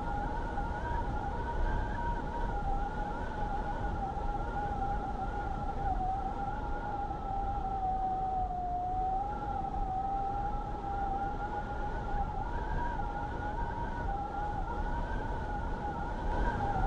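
Blizzard wind howling: a steady whistling tone that wavers slightly in pitch and dips about halfway through, over a continuous low rush of wind.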